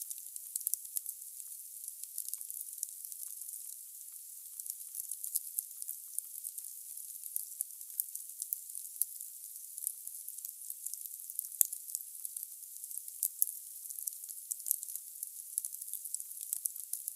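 Wood fire burning in a fireplace: a steady hiss with many small, sharp crackles and pops from the logs. One pop about eleven and a half seconds in is louder than the rest.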